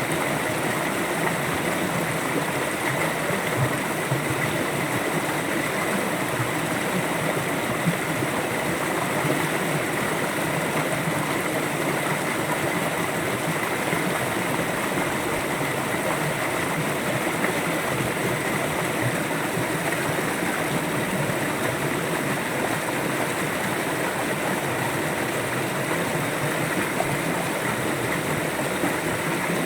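River water flowing, a steady rushing and babbling without change.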